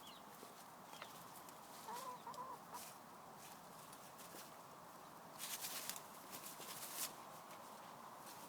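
Domestic hens making a soft, wavering cluck about two seconds in, with bursts of crackling rustle a little past five seconds and again at seven as they scratch through the undergrowth.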